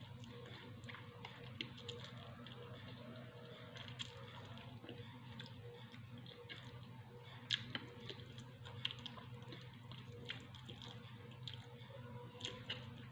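A person chewing food with scattered small wet clicks and smacks of the mouth, over a steady low hum.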